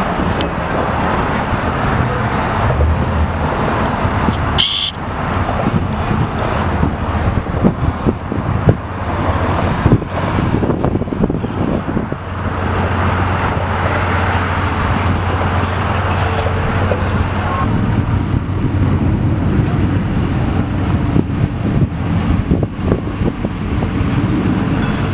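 Vehicles driving on a road: a steady low engine hum with tyre and road noise. About five seconds in there is one brief sharp high-pitched sound.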